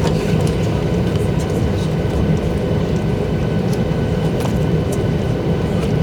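Boeing 737-800 jet engines running steadily: a continuous low rumble with a few faint, steady whining tones above it.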